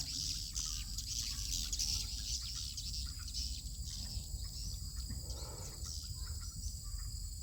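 Swiftlets twittering, many short high chirps overlapping throughout, over a steady high-pitched hum and a low rumble.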